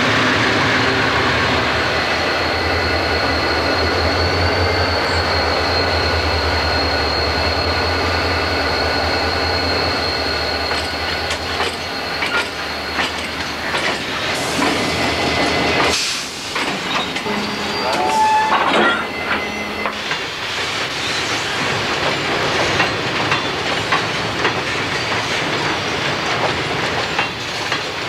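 Diesel freight locomotive and railroad cars. For the first half a diesel engine runs steadily, with a low rumble and a thin high whine over it. After a cut about halfway, freight cars roll with clanks and a brief wheel squeal.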